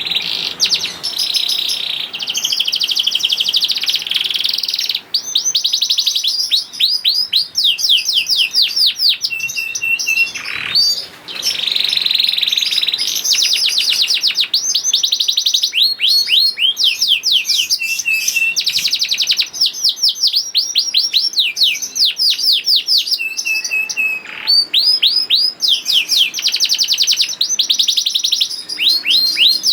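Domestic canary singing a long, continuous song of fast trills and rapidly repeated falling notes, with a few brief breaks.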